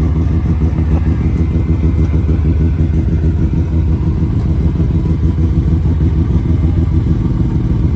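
A car engine running loud and steady, with a rapid low pulsing throughout.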